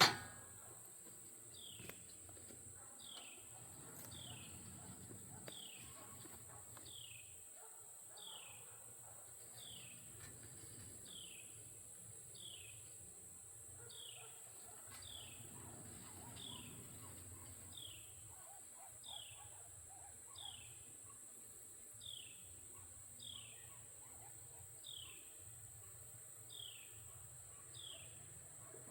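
A bird repeating a short, falling high call about once a second, faint, over a steady high-pitched drone typical of insects.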